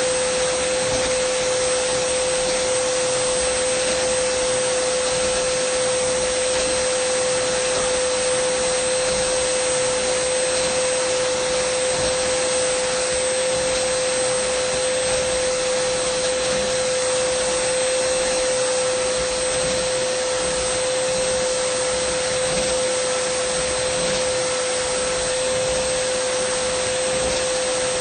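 Dyson vacuum cleaner running steadily: a rush of air with a constant mid-pitched whine that holds one pitch throughout.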